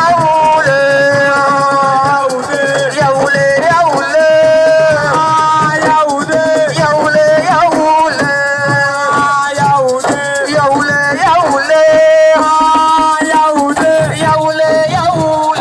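Senegalese assiko band music: a melody of long held notes, likely sung, over drums and a shaken rattle.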